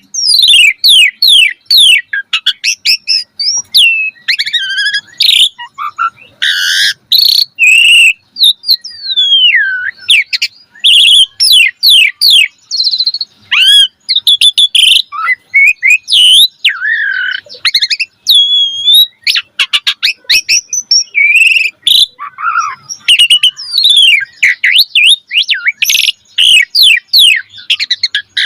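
Asian pied starling (jalak suren) singing a long, varied song: rapid runs of falling whistled notes mixed with buzzy phrases and sharp clicks, with only brief gaps.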